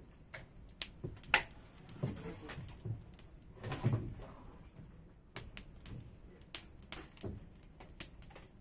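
Wood campfire crackling: irregular sharp pops and snaps from the burning firewood, the loudest pop about a second and a half in.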